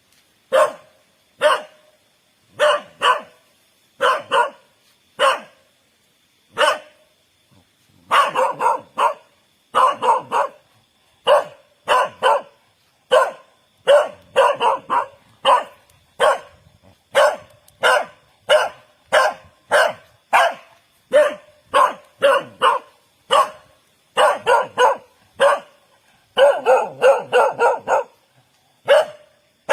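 A dog barking over and over: single barks and quick runs of two to four, with a pause of about two seconds near the start and a rapid flurry of barks near the end.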